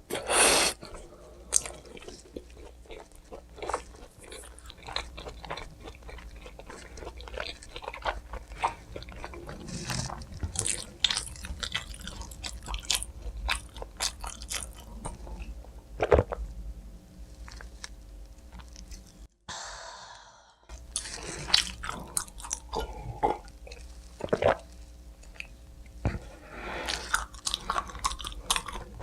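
Close-miked eating of pizza: irregular crunchy bites and wet chewing, with many short crackles. The sound drops out briefly about two-thirds of the way through.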